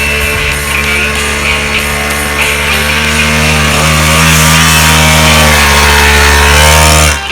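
Small dirt bike engine running, revving up about halfway through and holding at higher revs, then cutting off suddenly near the end, over background music.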